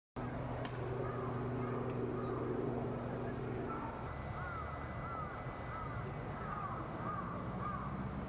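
A bird calling in a quick run of about eight short arched notes, starting about halfway through, over a low steady hum that fades out near the middle.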